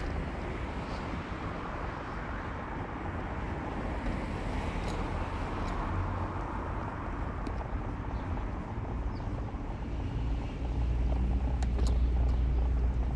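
Car driving: steady engine and tyre road noise, with the low rumble growing louder about ten seconds in.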